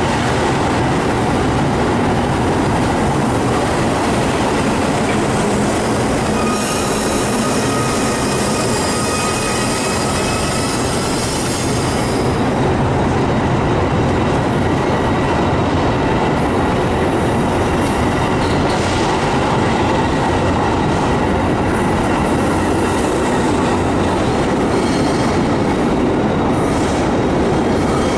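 Metra bilevel commuter train cars rolling past at a platform, a steady loud rumble of wheels on rail. From about six to eleven seconds in, high thin wheel squeal rides over it.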